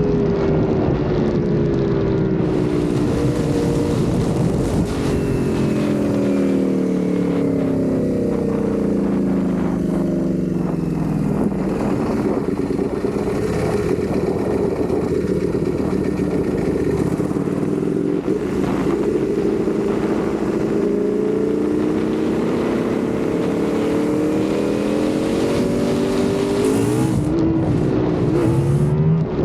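Ducati Panigale V4 sport bike's V4 engine on the move. The engine note falls in pitch as the bike eases off through the first part, runs lower through the middle, then rises again as it accelerates over the last several seconds, with a few quick dips in pitch near the end.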